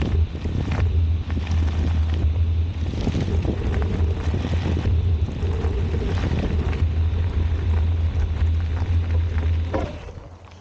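Wind buffeting the camera microphone on a moving bicycle, a steady low rumble with scattered small knocks and rattles from the ride. It dies down near the end.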